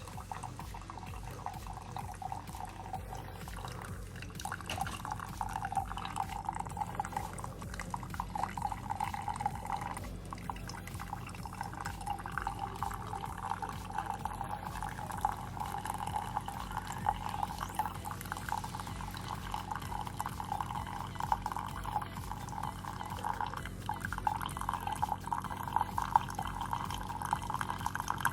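Keurig K-Supreme Plus single-serve coffee maker brewing a 12 oz cup: hot coffee streaming and dripping steadily into the mug, over a steady low hum.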